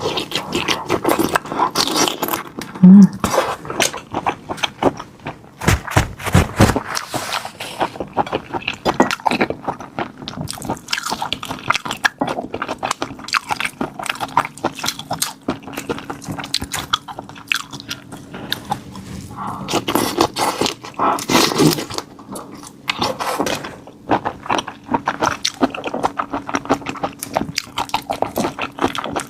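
Close-miked eating: a person biting and chewing raw marinated black tiger prawns, with many sharp crunches and wet clicks.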